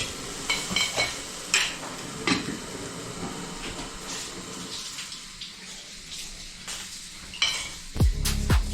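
Kitchen dishes and metal utensils clinking and knocking now and then over a faint steady hiss. Music starts near the end.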